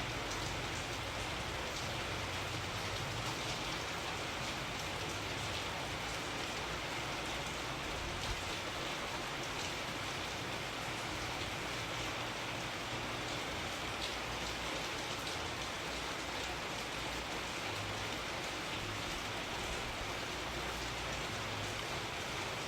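Steady rain falling, a constant hiss of many drops pattering on a surface.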